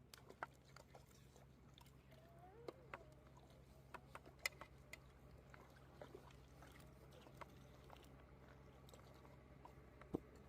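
Near silence: scattered faint clicks and taps over a low steady hum.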